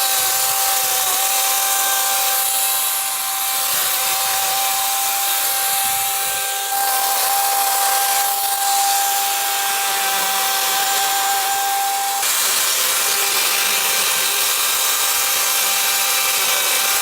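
DeWalt FlexVolt 60V brushless cordless chainsaw running at full speed with a steady high whine while cutting through small limbs. The motor's pitch holds almost level under load, showing barely any bogging down.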